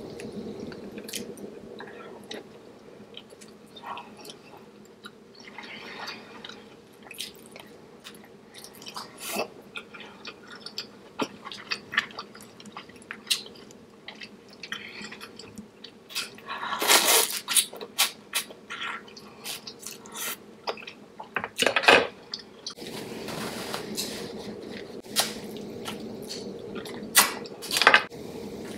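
Close-miked chewing and biting while eating a seafood boil, with many short, sharp clicks of mouth and food sounds. There are two louder bursts of eating noise, about two-thirds of the way through and again shortly after.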